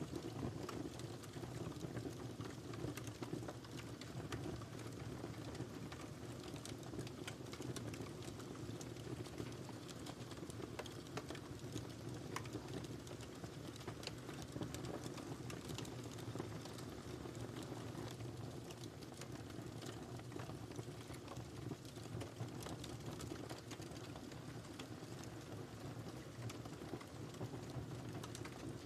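Wood fire crackling in a fireplace: a steady low rush of flames with many small, irregular pops and snaps.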